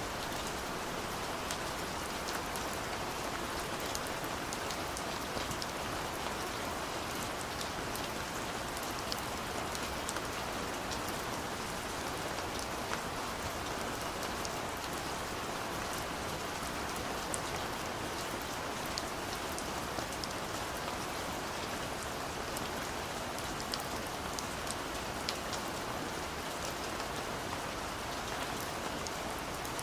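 Steady rain falling on a surface, a constant hiss with many small drop ticks scattered through it.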